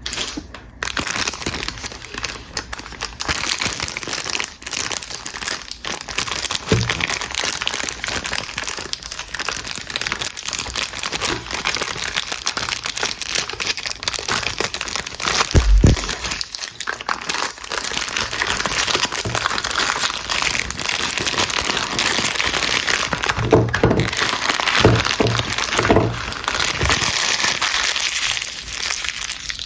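Packaging crinkling and crackling continuously as soap bars are unwrapped by hand, with a few dull knocks along the way.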